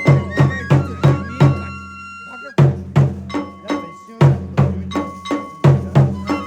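Kagura festival music: a drum struck in a quick, even beat, about three strokes a second, under a flute playing long held notes. The drumming stops for about half a second around two seconds in while the flute holds a note, then comes back in.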